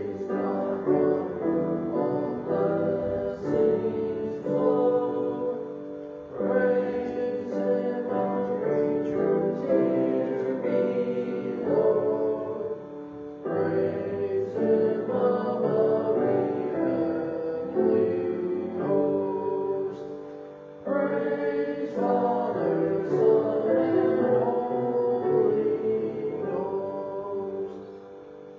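A church choir singing with piano accompaniment, in long phrases with short breaks between them.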